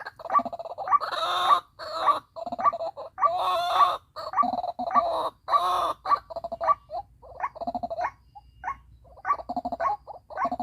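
White-breasted waterhen (ruak-ruak) calling: a rapid, repeated croaking 'ruak-ruak' series, with a few louder, harsher bursts every couple of seconds.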